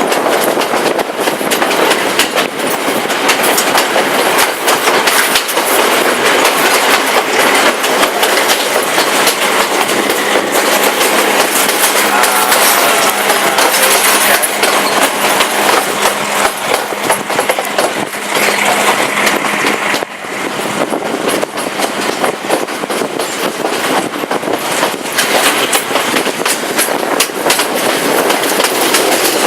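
Passenger train running at speed, heard from aboard: a steady rumble and rattle with the clickety-clack of wheels over the rail joints. A faint steady hum sits under it for several seconds, ending about two-thirds of the way through, when the sound briefly drops.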